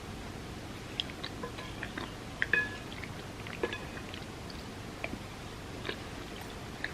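Close-up eating sounds: soft chocolate truffles in warm almond milk being chewed, with scattered small mouth clicks. Short ringing clinks come about two and a half seconds in and again a second later.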